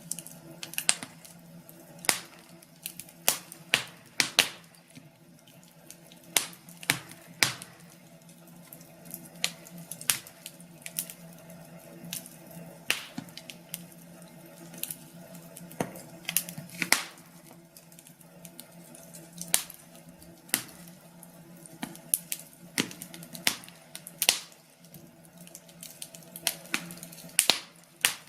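Wood fire in a fireplace crackling: irregular sharp pops, one to three a second, over a steady low hum.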